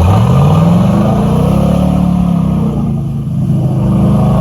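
Truck engine revved hard: the pitch climbs quickly at the start, dips slightly midway and is held high.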